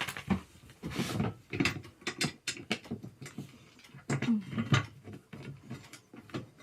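Gaming chair being assembled: screws being turned and fitted, with irregular clicks and knocks from the tool and the chair's parts.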